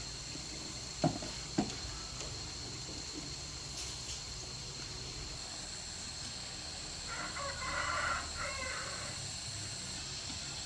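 A rooster crowing once, about seven seconds in, for about a second and a half. Two sharp knocks come about a second in, over a steady high-pitched whine.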